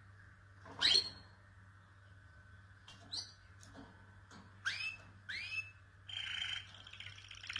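Domestic canary calling: a few separate short chirps that sweep up in pitch, the loudest about a second in, then a buzzy trill starting near the end as it goes into song. A faint steady hum runs underneath.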